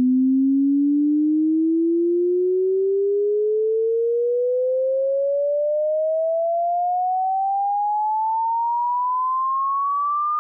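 Test-tone bass sweep: a single pure sine tone gliding smoothly and steadily upward in pitch, from a low hum to a mid-high tone, from low to high across the range.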